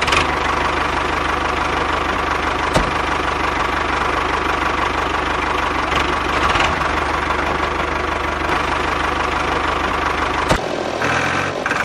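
Mini tractor's motor running steadily with a fast, low chugging rhythm and a dense mechanical rattle, stopping suddenly at the end.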